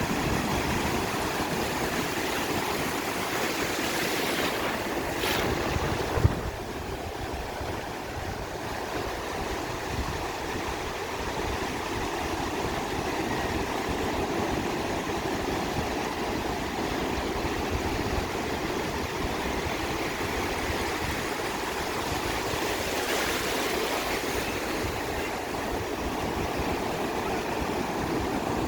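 Sea surf washing onto a beach in a steady rush, with two louder waves breaking about a fifth of the way in and again near the end. A short sharp knock sounds about six seconds in.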